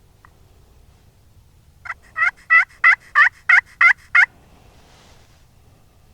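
A series of eight turkey yelps, loud and evenly spaced at about three a second, each note breaking downward in pitch.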